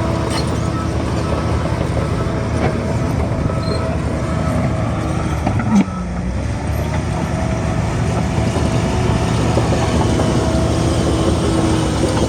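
Heavy diesel earthmoving machinery running steadily under load, with a steady whine over the engine, and a single short clank about six seconds in.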